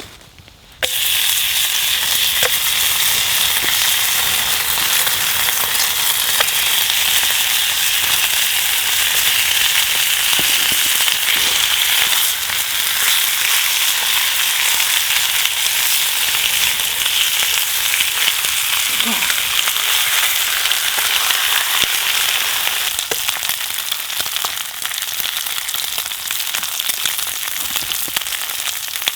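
Bacon sizzling loudly in a hot pan, starting suddenly about a second in as it goes into the pan, then frying steadily and easing off a little near the end.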